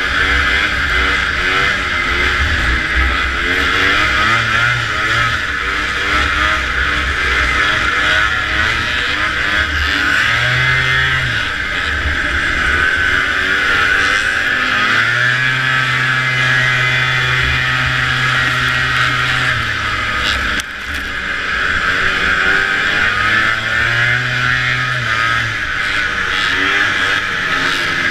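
Vintage two-stroke snowmobile engine running hard at racing speed under a steady rushing noise, its pitch rising and falling as the throttle is worked. It backs off briefly about 21 seconds in, then pulls again.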